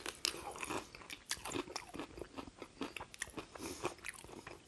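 Close-miked chewing of a crispy fried KFC hot wing: the crunchy breading crackles in quick, irregular crunches with wet mouth sounds.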